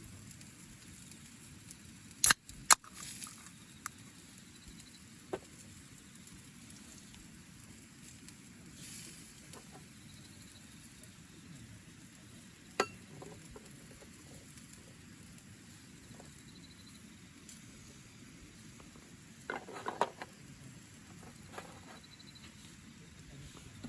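A few sharp clicks and knocks, the loudest pair about two seconds in and a small cluster near the end, over a faint steady hiss.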